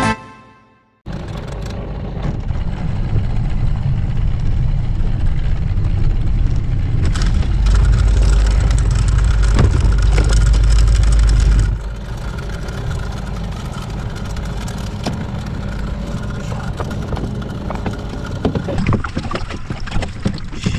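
Background music ends in the first second. Then a mini boat's Mercury 9.8 hp outboard motor runs steadily, with wind and water noise. It grows louder for a few seconds mid-way, then drops back suddenly.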